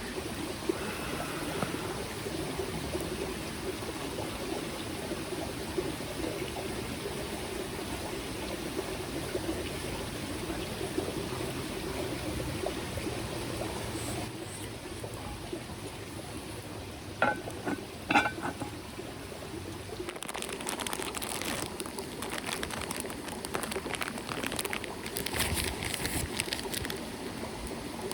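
Small mountain stream trickling steadily. About seventeen seconds in come two sharp clinks, and over the last several seconds a run of crackly clicking.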